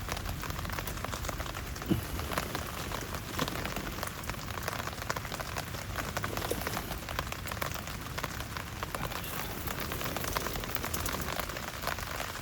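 Steady rain falling, a dense patter of many small drops striking surfaces.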